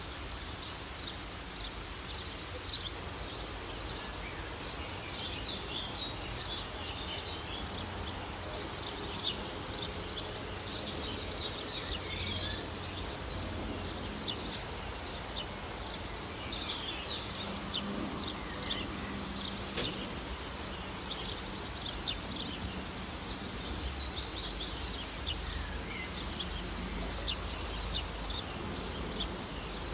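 Many small birds chirping and twittering in short, quick calls, with a high, buzzing insect trill that comes in for about a second every six seconds or so.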